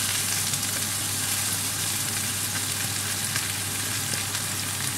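Vegetables and chanterelle mushrooms sizzling steadily in a hot wok, with faint small crackles, as oyster sauce is poured in.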